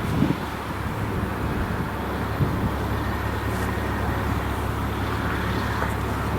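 Steady low rumble of a passing vehicle, holding level throughout.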